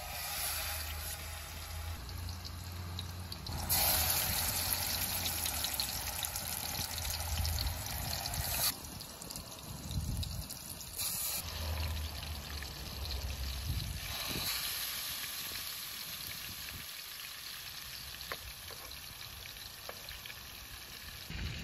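Onions frying in oil in a pot on a portable gas burner: a steady sizzling hiss that steps louder and softer several times, loudest from about four to nine seconds in.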